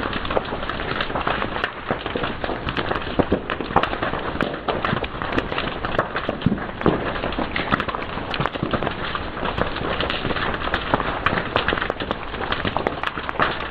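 Fire crackling steadily, with a dense run of small sharp pops and snaps over a constant hiss.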